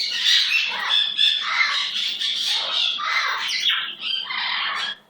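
Pet bird squawking loudly and harshly, calling almost without pause and breaking off just before the end.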